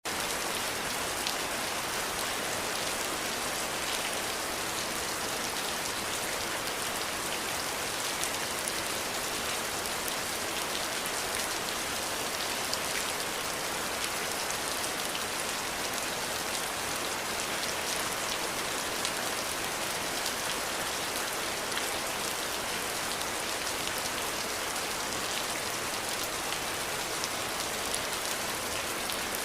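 Steady rain falling, an even hiss with many small drop ticks and no thunder or other events.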